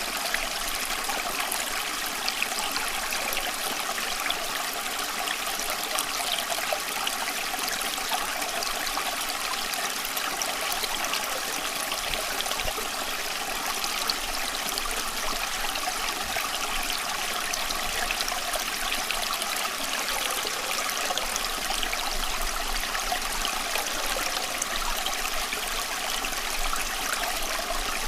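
Running water, a stream trickling and babbling in a steady, unbroken rush.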